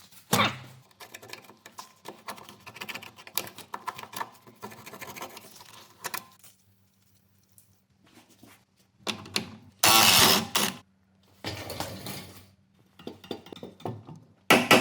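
Hand-tool work on a car's suspension: irregular clicking and clattering, with a short loud burst of noise about ten seconds in.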